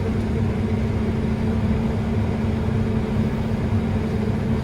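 Steady drone of a New Holland combine harvester running, heard from inside the cab: a constant low rumble with a steady hum on top that does not change.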